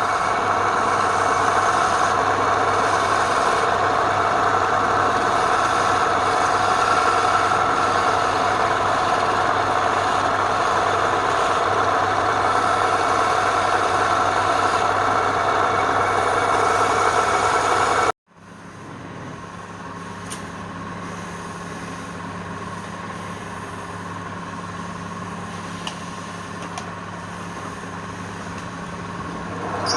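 Wood lathe motor running steadily with a constant hum. About two-thirds of the way through, the sound cuts off abruptly, then resumes quieter with a lower-pitched hum.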